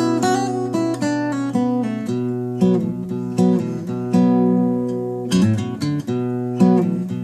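Acoustic guitar played solo with a capo at the second fret: picked and strummed notes over a ringing bass string, a new chord or note roughly every half second.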